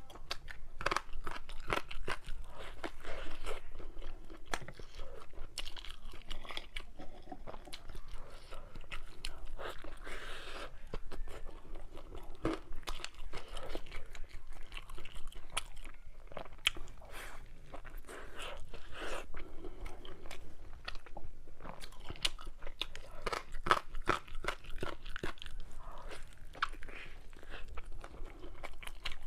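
A person chewing and crunching food in close-up, a steady run of wet crunches, bites and small clicks with no pause.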